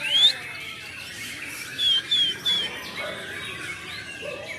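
White-rumped shama (murai batu) singing: a loud rising whistle, then, about two seconds later, three short clear whistles in quick succession.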